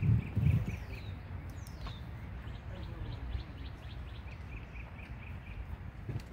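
Birds calling outdoors: two quick runs of five or six short, evenly spaced chirps and a few high whistles that fall in pitch, over a steady low rumble. Two loud low thumps come right at the start.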